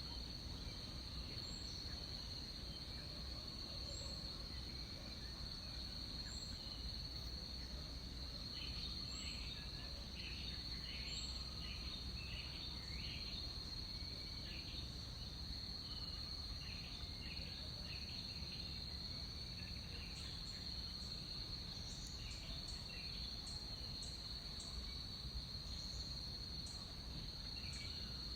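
Tropical rainforest ambience: insects keep up a steady, high-pitched drone, with short chirping calls scattered through the middle and a low background rumble.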